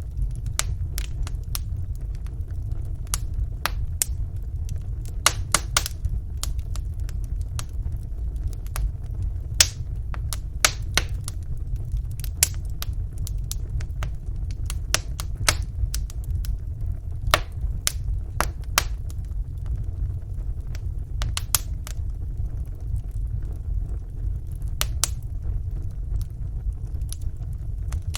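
Wood fire burning in a fireplace: a steady low rumble of flames with small, sharp crackles and pops at irregular intervals.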